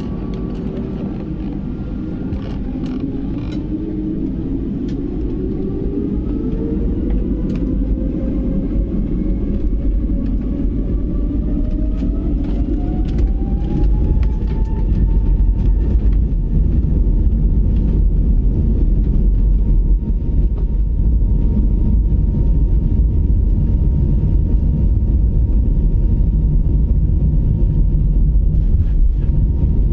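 Airbus A320neo's Pratt & Whitney geared turbofan engines spooling up to takeoff thrust: a whine rises in pitch over about fifteen seconds and then holds steady, while a deep rumble grows louder. Scattered creaks and rattles in the first half.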